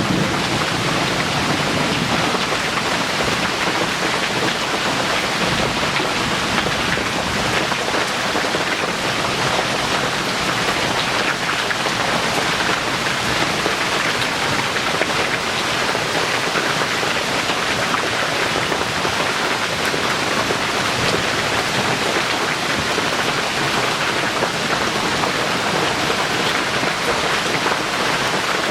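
Heavy tropical rain pouring steadily, a dense even hiss of rainfall.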